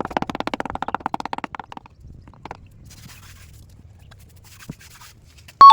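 A quick run of rasping scraping strokes, about ten a second, for just under two seconds, then a faint low hum. Near the end a loud electronic tone with two steady pitches cuts in suddenly.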